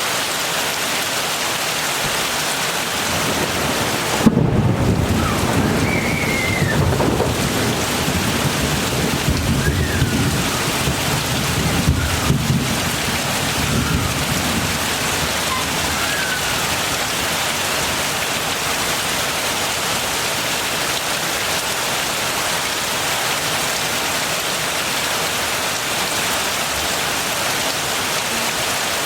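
Steady heavy rain falling, with a thunderclap about four seconds in that rolls on as a low rumble for around ten seconds before the rain alone returns.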